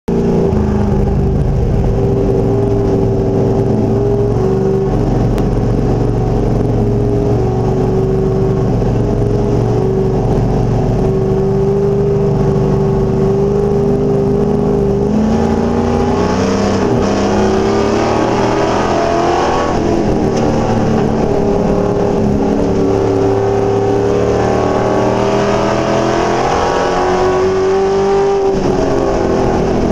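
Race truck's V8 engine running loud and steady at an even pitch, then rising and falling in pitch from about halfway through as the throttle is opened and lifted, as at a restart to racing speed.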